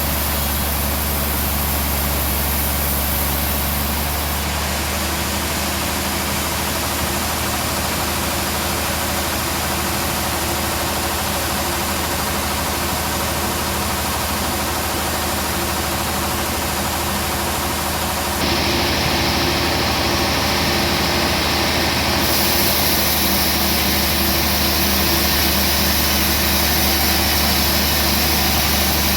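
Sawmill machinery running with a steady engine hum and noise. The sound shifts abruptly about eighteen seconds in and becomes a little louder and brighter.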